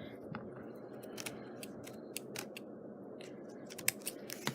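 Small scissors snipping away frayed threads along the edge of a glued burlap cutout: a dozen or so quick, irregular snips, closer together in the second half.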